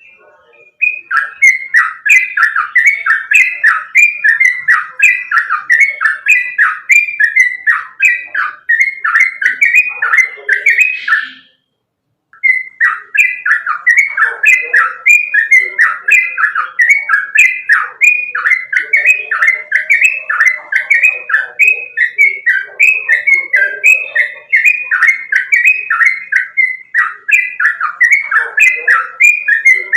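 Yellow-vented bulbul (trucukan) singing a fast, continuous run of chirping notes, the non-stop 'ropel' style of song. It stops suddenly about eleven seconds in and starts again a second later.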